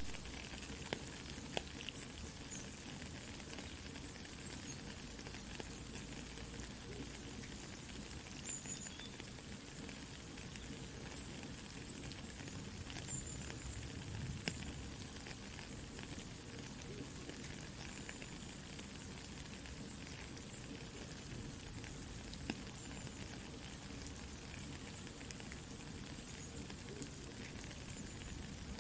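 Soft steady rain with a campfire crackling, its scattered sharp pops and snaps standing out over the even hiss.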